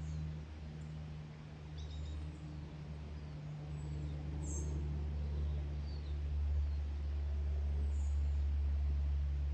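A few faint, short, thin high bird calls scattered over a steady low rumble, which is the loudest sound.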